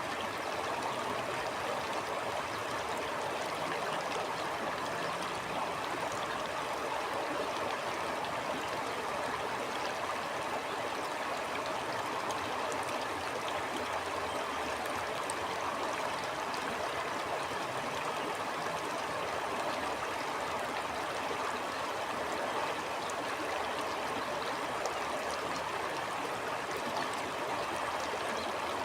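A stream flowing steadily over rocks, a constant rushing and gurgling of water.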